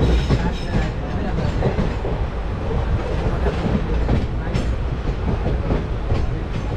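Passenger train coach running along the line, heard from its open door: a steady rumble of wheels on rails with a few sharp clacks over the rail joints.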